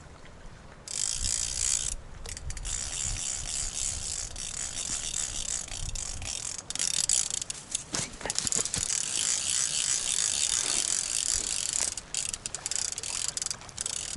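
Fishing reel's ratchet clicking rapidly in stretches with short breaks, as line runs off or is wound, over wind rumbling on the microphone.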